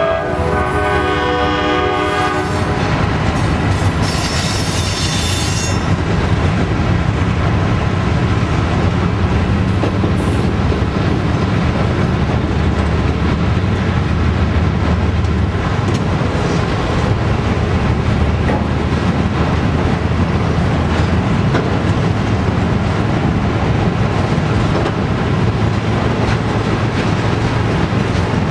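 A locomotive horn chord trails off about two and a half seconds in, leaving the steady rumble and clickety-clack of loaded autorack freight cars rolling past. A brief high wheel squeal rises over it a few seconds in.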